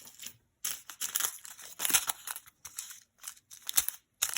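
Jewelry and its packaging being handled by hand: irregular rustling and crinkling with short sharp clicks as tangled costume jewelry pieces are picked through.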